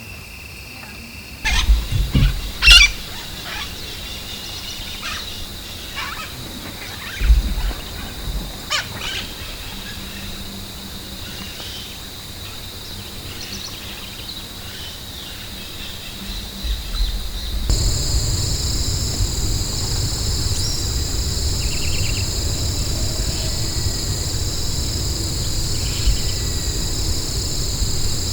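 A few sharp knocks and clicks with low thuds, then, after a sudden change, a steady chorus of night insects with a low rumble beneath.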